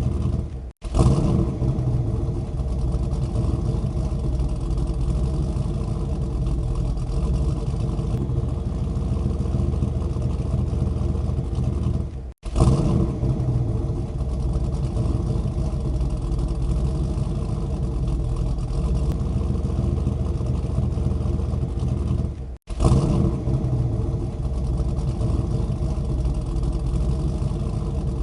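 An engine running steadily with a low rumble. It cuts out abruptly three times, about ten seconds apart, and each time comes back with a short louder burst.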